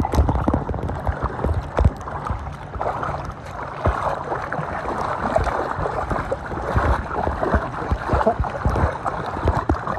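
Lake water sloshing and splashing close by, with irregular low bumps and knocks, as around people floating on inflatable floats.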